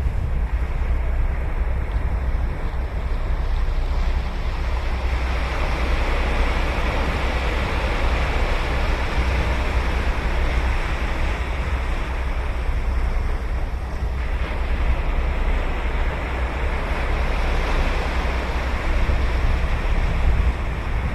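Ocean surf breaking and washing up a sandy beach. The wash swells twice as waves come in, over a low, steady rumble of wind on the microphone.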